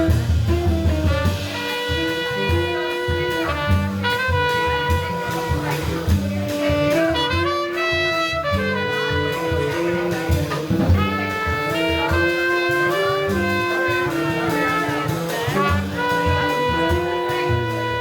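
Live jazz band playing: a lead instrument holds long notes over a moving bass line and drums.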